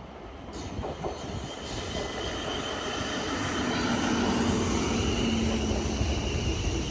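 A passing vehicle approaching and growing steadily louder, with a steady whine that comes through more clearly about halfway in.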